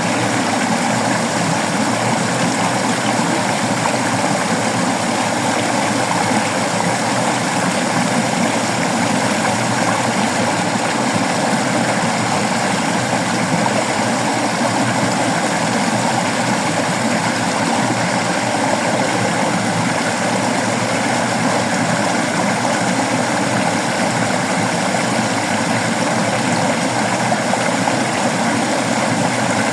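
Waterfall's falling water rushing steadily, a loud, even wash of noise with no breaks.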